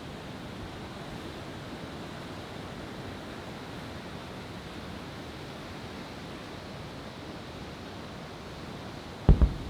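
A steady rushing noise between shells, then one loud firework bang about nine seconds in.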